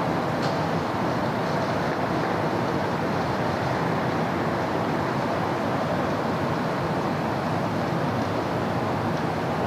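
Steady city road traffic: a continuous wash of tyre and engine noise from passing vehicles, with no single vehicle standing out.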